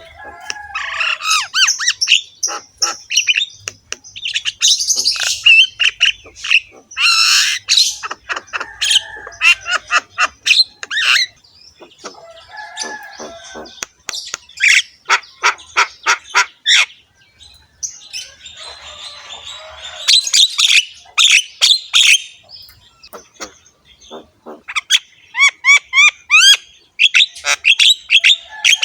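Javan myna (jalak kebo) singing a long, varied song of harsh rasping calls mixed with rapid clicks and short whistled notes, ending in a run of fast repeated notes.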